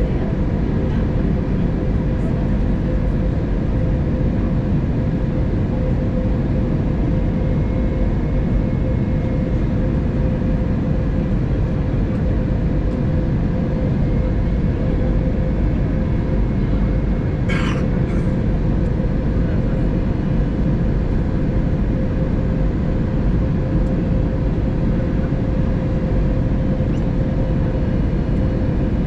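Steady cabin noise of an Airbus A320neo airliner in descent: a loud rushing roar with a steady hum under it. A brief sharp noise comes about seventeen seconds in.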